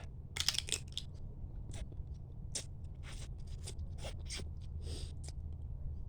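A person eating mud crab close to the microphone: shell being bitten and cracked, heard as a run of short sharp crunches and clicks, with chewing.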